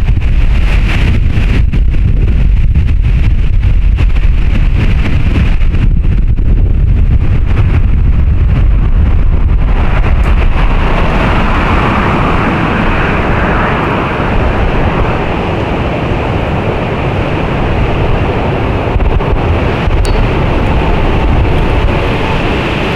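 Strong storm wind gusting through trees, with heavy wind buffeting on a microphone fitted with a furry windscreen. A deep rumble leads for the first ten seconds or so; then it eases and a broader rushing hiss of wind takes over.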